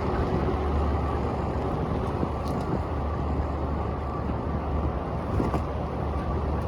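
Steady low wind rumble buffeting the microphone of a camera on a moving bicycle, over a wash of city street traffic.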